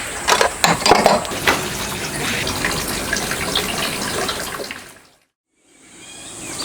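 Water running or pouring, with clinks and knocks over the first second and a half. It fades out to silence about five seconds in, then fades back in.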